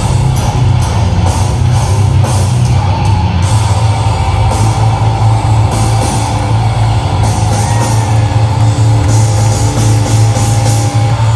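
A heavy rock band playing live and loud, with distorted guitars over a heavy bass and a drum kit with repeated cymbal crashes.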